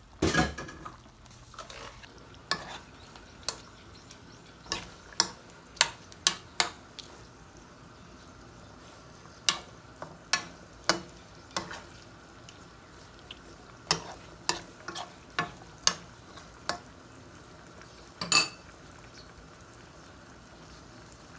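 Kitchen utensils clinking and scraping against cookware or dishes: irregular sharp clicks, from one to several a second, over a faint steady sizzle-like hiss. The loudest clatters come just after the start and again near the end.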